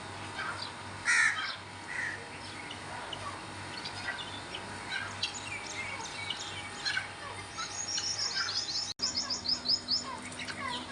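Many birds chirping and calling together, with a louder harsh call about a second in and a fast run of high, falling chirps in the last few seconds.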